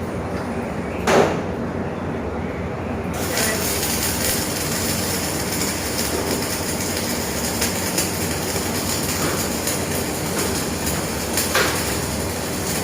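Electric arc welding: a thump about a second in, then the arc strikes about three seconds in and runs as a steady crackling hiss with scattered sharp pops.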